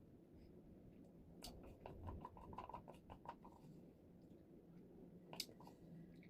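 Faint wet mouth clicks from chewing soft, sticky mochi ice cream. There is a run of small clicks for about two seconds, then one sharper click near the end.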